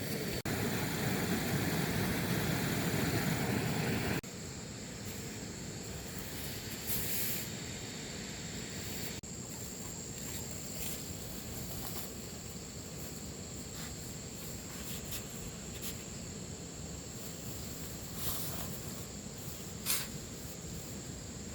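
Outdoor ambience with a steady, high-pitched insect drone and scattered light rustles and clicks. A louder rushing noise fills the first four seconds and cuts off abruptly.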